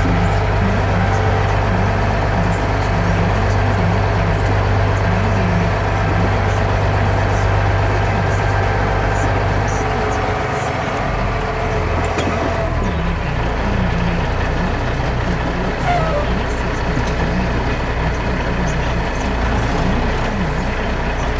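A motor vehicle's engine running steadily with a low drone, its lowest note shifting down about halfway through.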